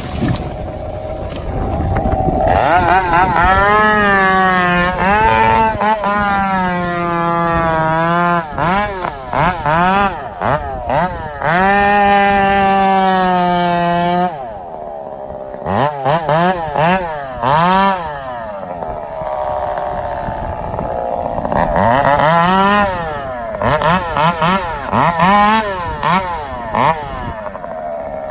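Two-stroke chainsaw run at high throttle in long stretches, its pitch sagging and recovering as it works through timber, with short throttle blips in between.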